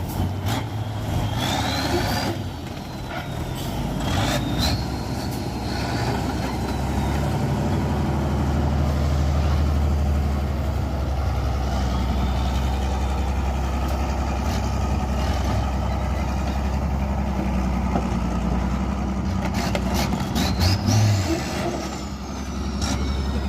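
Heavy Tatra truck-trial truck's diesel engine running and revving under load. A high whistle rises and falls several times over it, with sharp knocks near the start and again near the end.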